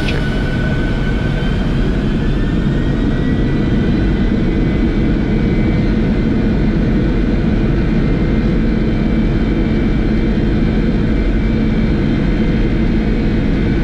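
Boeing 747-400 jet engines spooling up to takeoff thrust, heard from the cockpit. A steady heavy rumble runs under a whine that rises in pitch over the first few seconds and then holds steady.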